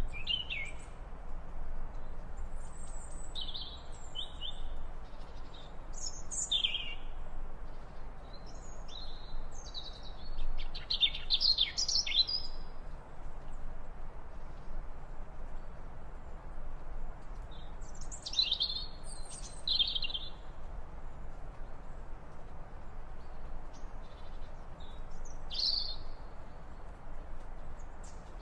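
Birds calling: short, high chirps and trills that come in groups, the busiest stretches near the start, in the middle and about two-thirds of the way through, over a steady background hiss.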